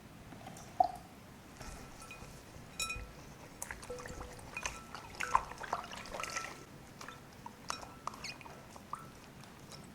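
Water splashing and dripping in small irregular bursts as a kitten is washed, with one brief sharp sound about a second in.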